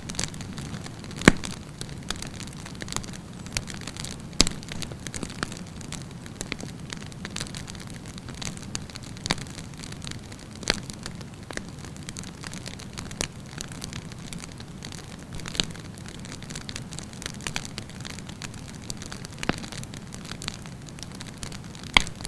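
Wood campfire burning, with a steady low hiss and irregular sharp crackles and pops; the loudest pops come about a second in, near four and a half seconds, and near the end.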